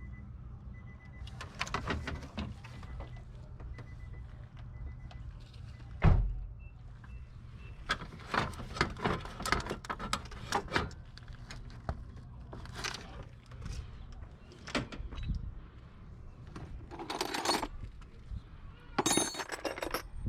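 Irregular metallic clinks, rattles and knocks of hand tools being handled, with one heavy thump about six seconds in.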